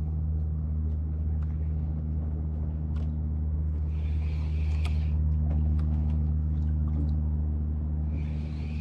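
Boat engine running steadily with an even low hum, with a short hiss about four seconds in.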